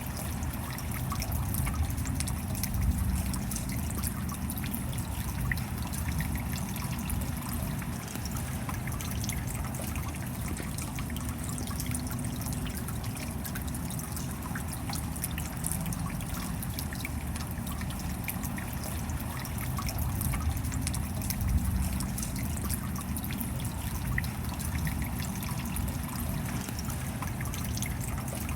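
Steady rain falling, many small drops ticking without a break.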